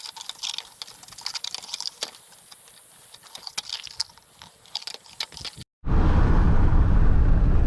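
A run of irregular small clicks and crunches, then, after an abrupt cut about five and a half seconds in, the loud steady low rumble of road noise inside a moving vehicle.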